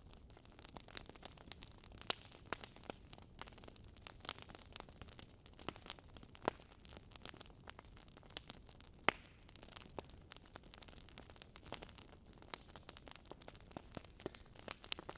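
Wood fire crackling in a fireplace: irregular snaps and pops over a faint low hiss, with a sharper pop about nine seconds in.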